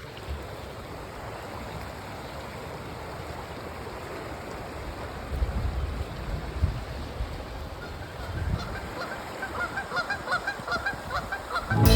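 Geese honking in a rapid run of short, repeated calls that start about two-thirds of the way in and grow quicker and louder, over a steady rushing background with a few low rumbles.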